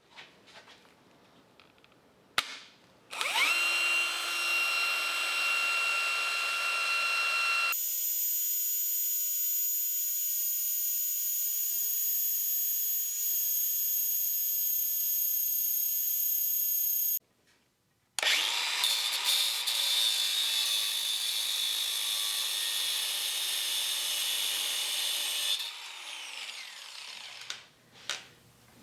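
Power drill running in several separate spells, boring a 5/16-inch hole; each spell is a steady whine that starts and stops abruptly, and the last one winds down near the end.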